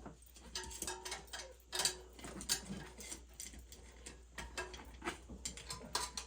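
Hand tools at work on an oil-burner steam boiler: a wrench and other metal tools giving scattered light clicks and taps at uneven intervals, over a faint steady hum.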